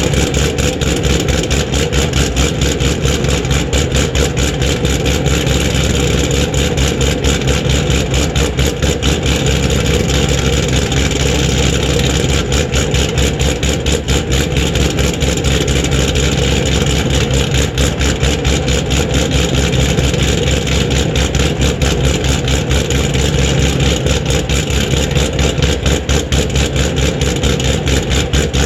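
2014 Camaro SS's 416 LS3 V8 idling steadily with rapid, even exhaust pulses during its cold-start warm-up.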